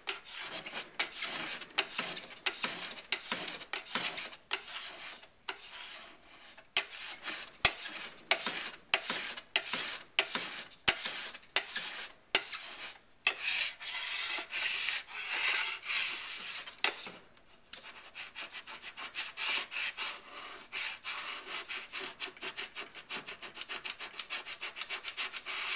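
Repeated short scraping and rubbing strokes on a snowboard's plastic base, smoothing down a P-Tex gouge repair. The strokes come faster and more evenly in the last several seconds.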